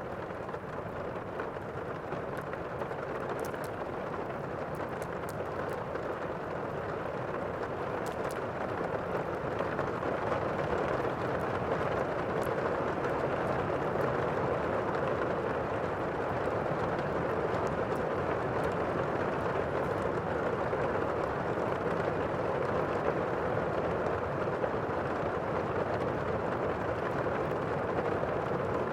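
Thunderstorm ambience: a steady wash of heavy rain that swells over the first ten seconds or so and then holds, with a few faint ticks in the first half.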